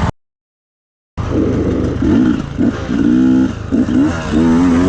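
About a second of dead silence, then a dirt bike engine revving hard, its pitch wavering up and down with short drops as the throttle is worked.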